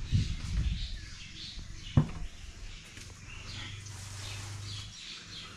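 Birds chirping, many short calls throughout, with a single sharp knock about two seconds in.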